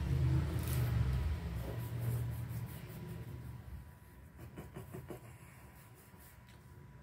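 A motor vehicle's engine rumbling and fading away as it passes, with a few faint clicks about halfway through.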